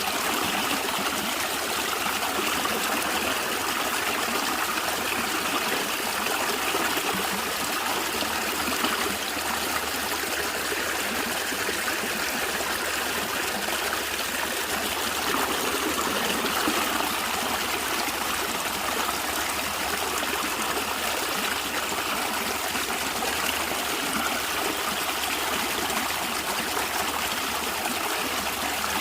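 Stream of water running and gurgling steadily over stones, an even, unbroken rush.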